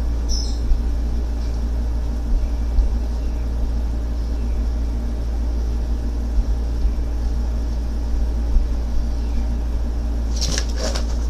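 Steady low rumble, with a short clatter of knocks about ten seconds in.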